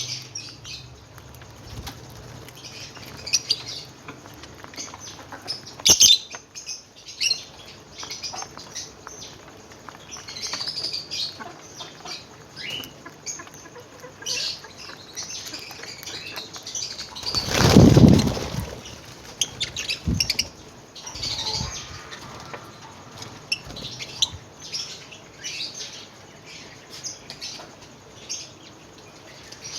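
Caged lovebirds chirping with many short, high calls. About eighteen seconds in there is a loud, second-long rustling burst.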